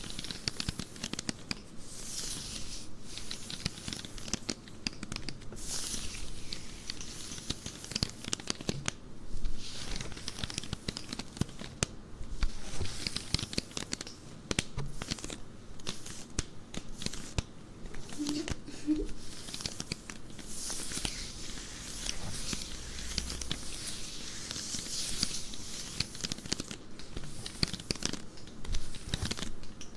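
Close-up scratching and rubbing of stockings, a dense crackly scratching that goes on throughout.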